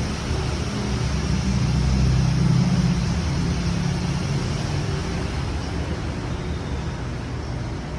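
Road-vehicle noise: a low engine and tyre rumble swells to a peak between two and three seconds in, then slowly fades over a steady hiss of traffic.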